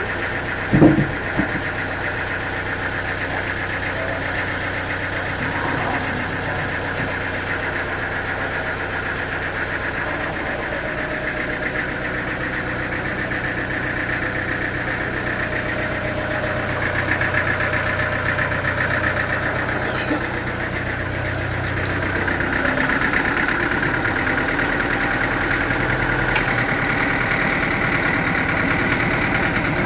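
Sawmill machinery running steadily with an engine-like drone and a high whine, and a sharp knock about a second in.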